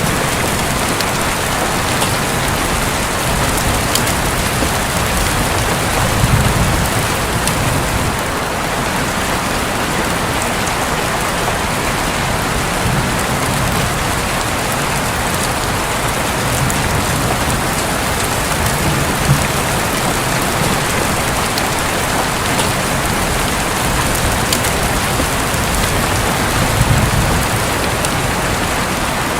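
Heavy rain drumming steadily on a roof, with sharp drop ticks scattered through it. Low rumbles of thunder swell twice, about six seconds in and near the end.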